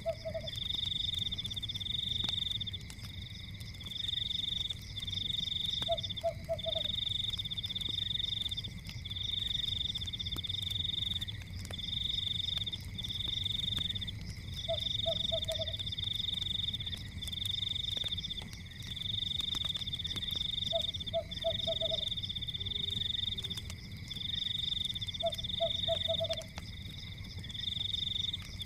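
Night forest chorus: a high, pulsing trill comes in bursts of about a second with short gaps between them. A lower call of three or four quick notes repeats about every five seconds. Underneath is a low rumble with faint crackling from a fire.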